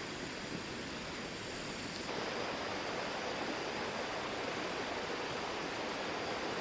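A steady rushing noise with no distinct events. A thin, high, steady whine stops abruptly about two seconds in, and the rushing gets a little louder there.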